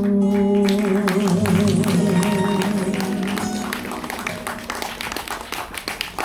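Live band music holding a sustained final chord that slowly fades, with scattered audience clapping growing over the last few seconds.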